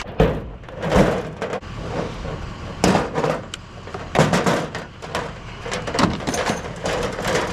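Irregular knocks, clacks and rustling of household junk being shifted and handled while rummaging through a curbside pile, a dozen or so hits scattered unevenly.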